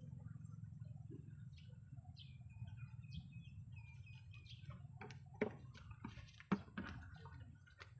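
Birds chirping in short, repeated calls. About five seconds in come a few sharp knocks, the loudest sounds here, over a faint steady low rumble.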